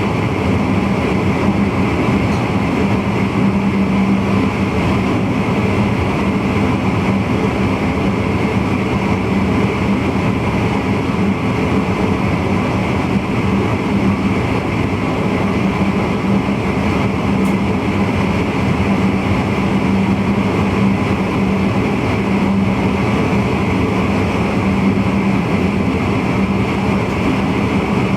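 Steady running noise of a VIRM double-deck electric intercity train at speed, heard from the driver's cab: wheels rolling on the rails under an even low hum.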